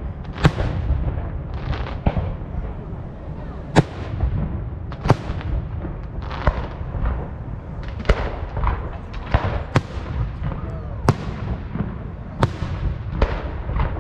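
Aerial firework shells bursting in an uneven series of sharp bangs, about eight loud ones, each trailing off in echo, over a steady low rumble.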